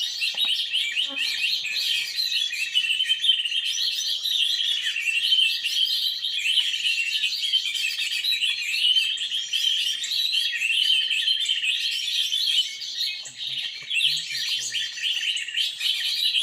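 Dense, continuous chorus of many small birds chirping and twittering rapidly at a high pitch, with overlapping calls and no break.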